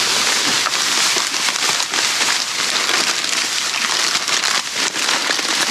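Plastic bags and wrappers rustling and crinkling continuously as hands rummage through a bag of discarded items, with many small clicks and taps mixed in.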